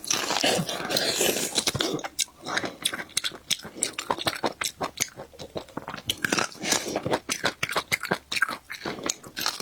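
Close-miked eating: a person biting and chewing, with a dense run of small crunchy clicks, thickest in the first couple of seconds.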